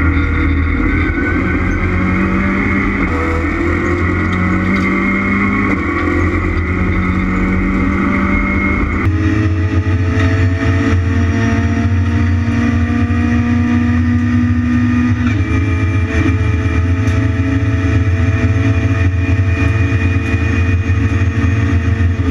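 Renault Clio Cup race car engines running hard under acceleration, the pitch climbing slowly and stepping at each gear change. The sound changes abruptly about nine seconds in, to a different car or vantage, and runs on with the same climbing engine note.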